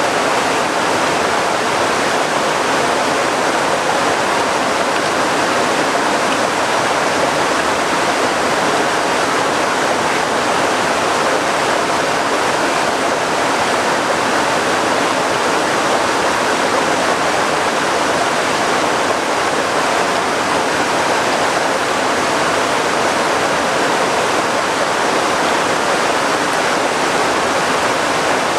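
Loud, steady rush of water that does not let up, from the heavy downpour and the river beside the hut.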